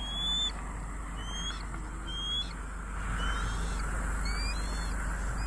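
A bird calling with short, clear whistled notes that rise in pitch, about one a second, some doubled, over a steady low rumble.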